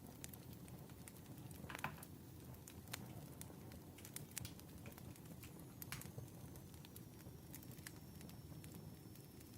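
Wood fire crackling: scattered sharp pops and snaps over a soft low rumble of burning logs, with a cluster of pops about two seconds in.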